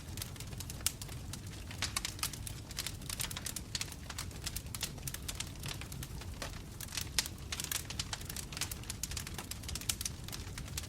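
Wood fire burning in a fireplace: logs crackling and popping with irregular sharp snaps over a low steady rumble of the flames.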